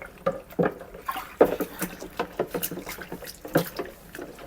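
Water splashing and sloshing in a sink as a plastic vacuum-cleaner part is rinsed and scrubbed by hand, with irregular small knocks of the plastic against the sink.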